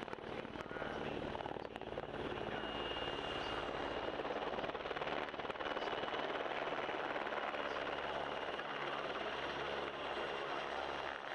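PZL W-3A Sokół twin-engine helicopter running steadily, its rotor noise carrying a thin, steady high whine.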